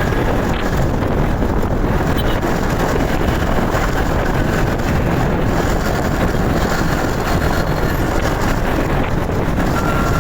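Steady, loud wind rush on a phone microphone mounted on a moving motorcycle, mixed with road and engine noise.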